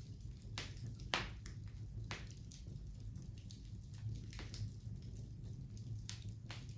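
Wood fire crackling, with irregular sharp pops and snaps (the loudest about a second in) over a steady low hum.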